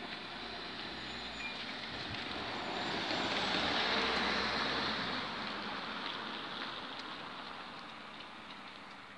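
Train running past on the track at the level crossing: a rushing rumble of wheels on rails that swells to its loudest about four seconds in, then fades away.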